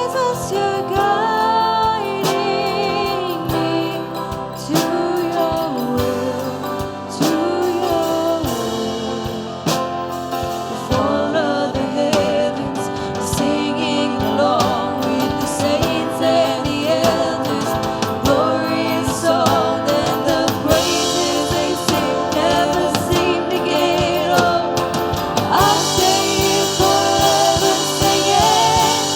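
Worship band playing a gospel-style song with singing, drums and guitar.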